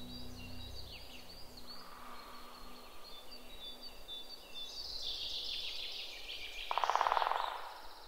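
Small songbirds chirping and whistling in short high notes, with a louder buzzing rattle about seven seconds in.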